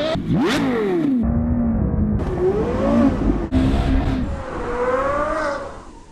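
Porsche Carrera GT's V10 revving hard through a Kreissieg cat-back exhaust, its pitch rising and falling with throttle and shifts across several short spliced clips. It fades out near the end.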